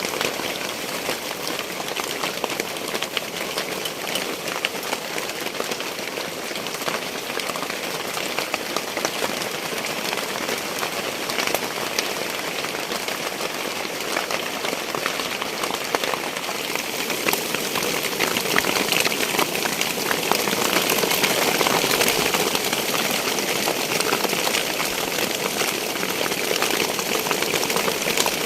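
Heavy rain falling on a leaking hut roof: a dense hiss of drops that grows louder in the second half.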